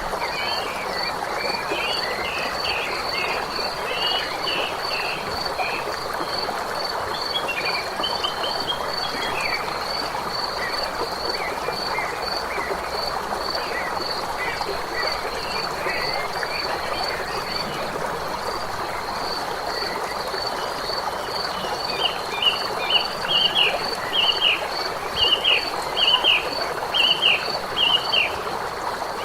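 A chorus of frogs calling over a steady hiss, with a high note pulsing about three times a second throughout. The chirping calls grow louder about twenty-two seconds in.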